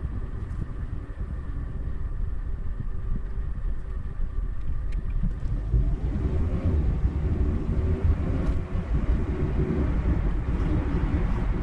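Car driving along a road: a steady low rumble of engine and tyres that grows somewhat louder about halfway through.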